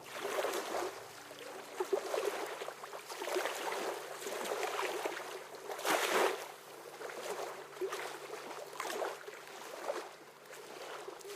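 Small waves lapping at the water's edge in irregular swells.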